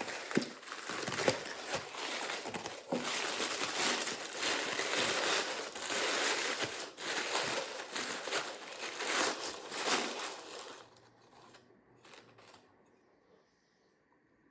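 Crinkling and rustling of wrapping being handled, with many small crackles, for about eleven seconds, then it dies down to a few faint rustles.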